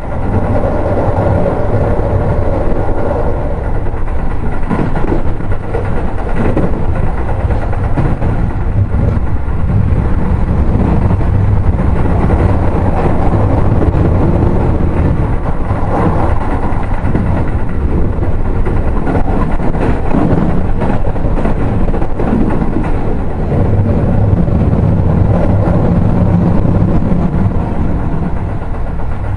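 Keio 7000 series electric commuter train running at speed, heard from inside a passenger car: a steady rumble of wheels on rails, with a held tone near the start and a lower one near the end.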